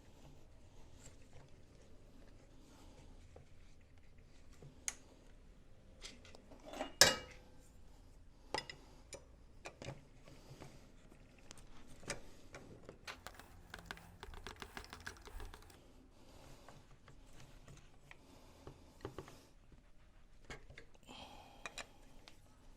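Small metal parts and hand tools being handled on a workbench: scattered clicks and taps, with one loud metallic clank about seven seconds in that rings briefly, and a run of quick light ticks a little past the middle.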